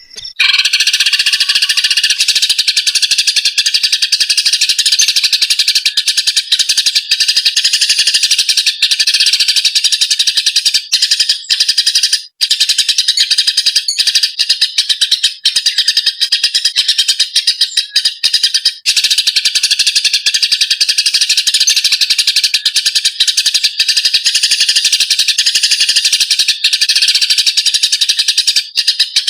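Eurasian tree sparrows' fighting calls: a dense, loud stream of rapid, high chirps that starts abruptly and goes on with only brief gaps.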